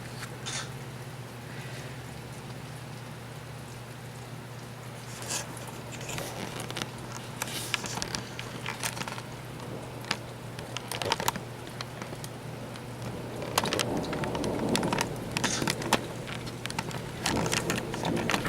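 Rain falling outside, with scattered drips and taps, heavier about two thirds of the way through, over a steady low hum.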